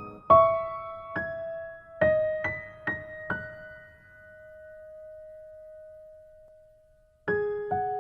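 Slow, gentle solo piano melody of single struck notes. After a few notes, one is held and fades out over about three seconds; after a brief pause, a quicker run of notes begins near the end.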